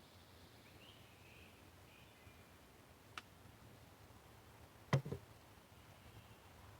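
Wooden sticks being handled and laid onto a stick-built bird trap: a light click about three seconds in, then a sharper knock with a quick second knock about five seconds in, over quiet background.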